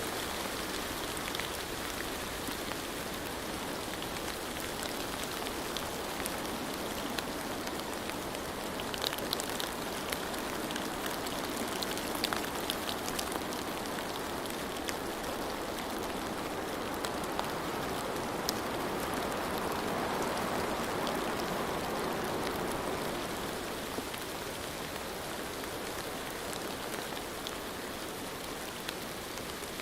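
Steady rain falling, an even hiss sprinkled with sharper ticks of single drops; it swells a little past the middle.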